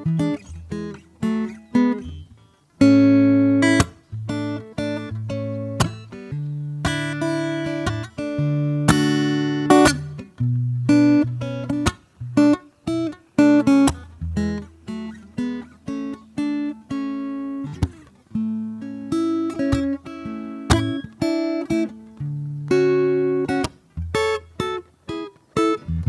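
Acoustic guitar played solo and unhurried, a mix of single plucked notes and strummed chords, each ringing out and fading.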